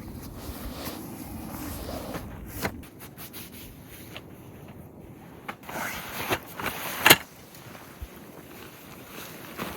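Low wind rumble on the microphone for the first few seconds, then scattered knocks and clicks, bunched near the end, with the loudest about seven seconds in.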